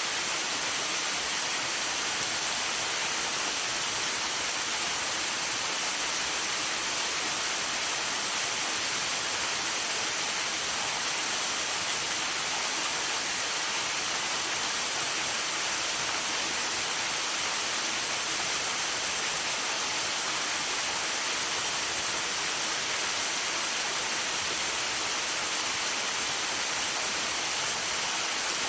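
Waterfall: falling water rushing in a steady, unbroken hiss, strongest in the high end.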